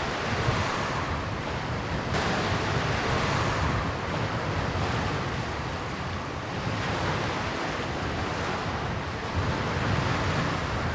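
Waves washing against a lakeshore in the wind, swelling and easing every couple of seconds, with wind rumbling on the microphone.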